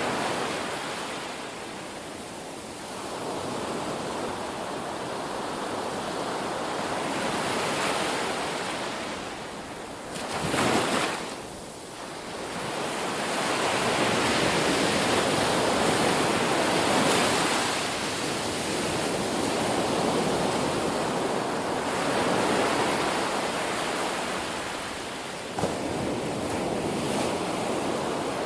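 Ocean waves breaking and washing on a shore, a steady rushing that swells and fades slowly, with one short louder surge about ten seconds in and a sudden crash near the end.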